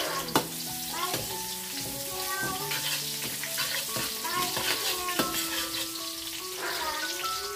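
Sliced onion and chili sizzling in hot oil in a steel wok, stirred with a metal ladle that clinks against the pan several times, the sharpest clink about half a second in.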